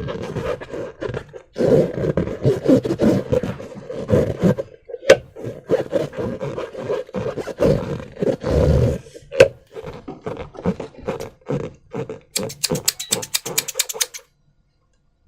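Slime squelching and crackling as it is squeezed and worked, with many small irregular pops and clicks. Near the end comes a rapid, even run of tiny pops.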